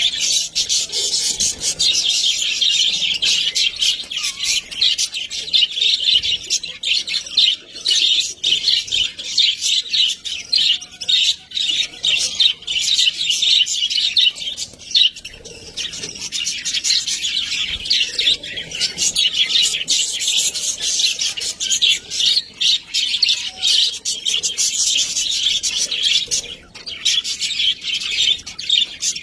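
Budgerigars chattering and warbling without a break: a dense stream of rapid, high chirps.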